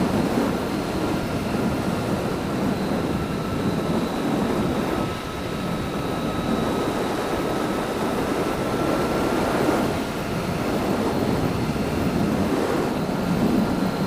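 Wind rush on the microphone over the engine and road noise of a motorcycle being ridden along a road, with a faint thin whine held steady.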